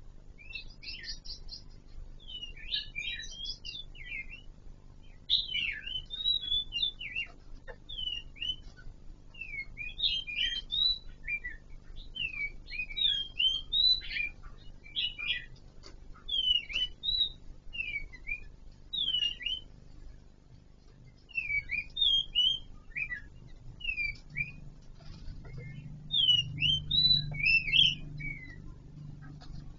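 Birds chirping in short, quick calls, a few every second or so with brief pauses, throughout. A low hum rises under the calls near the end.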